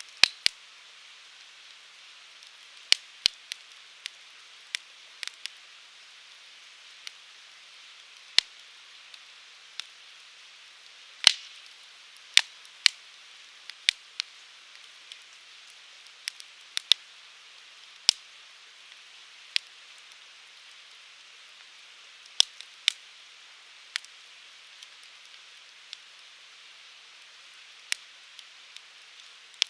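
Firewood burning in a Uniflame Fire Grill: irregular sharp crackles and pops, a few of them louder snaps, over a steady soft hiss. The loudest snap comes about eleven seconds in.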